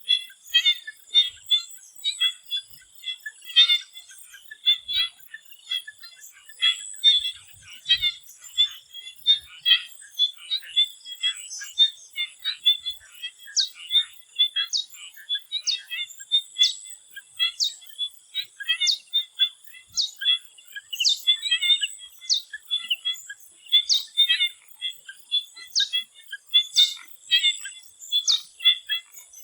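A swamp chorus of many frogs calling at once in short, overlapping croaks and chirps, over a steady high-pitched tone. From about a third of the way in, a sharp high chirp repeats about once a second.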